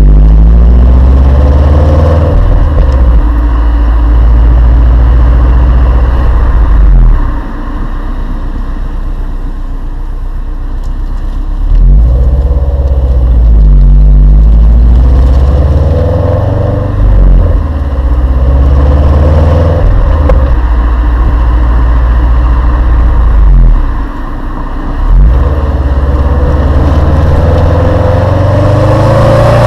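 Exhaust of a Subaru Liberty tuned by STI, its turbocharged flat-four being driven hard, heard from outside the car. The revs climb and drop back several times as it shifts gear, with a quieter stretch off the throttle about seven seconds in that lasts some five seconds.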